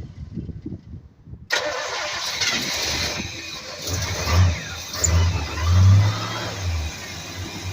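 A long-unused vehicle engine cranks with low thumps, then fires up suddenly about a second and a half in and keeps running. It is revved in three or four surges near the middle.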